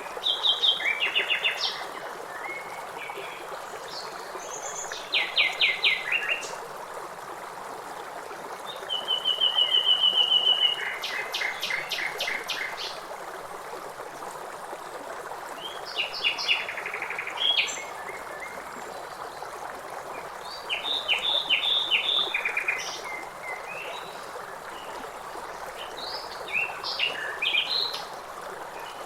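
Songbirds singing over the steady rush of river water: about six short song phrases of quick repeated notes and trills, a few seconds apart.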